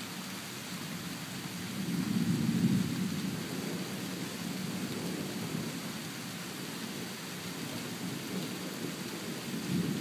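Thunderstorm: steady rain hissing with low thunder rumbling, swelling to a louder roll about two seconds in and again at the very end.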